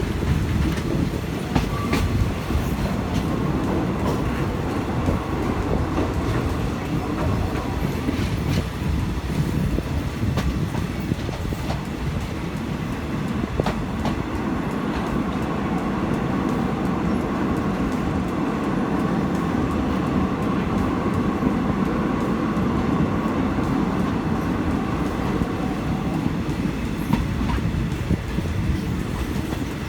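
Passenger train running along the track, heard from on board: a steady rumble with scattered clacks of the wheels over the rails.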